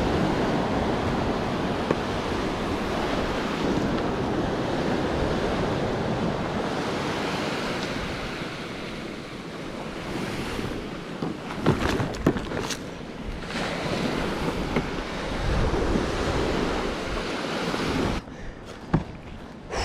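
Ocean surf breaking and washing up a beach, with wind buffeting the microphone. A few sharp knocks come a little past halfway, and the wash drops away suddenly near the end.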